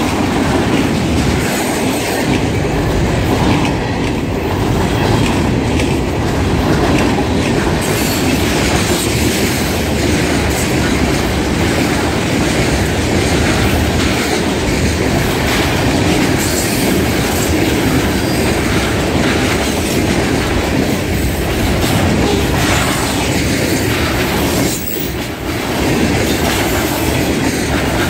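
Freight train cars rolling past close by: a loud, steady noise of steel wheels on rail, dipping briefly about 25 seconds in before picking up again.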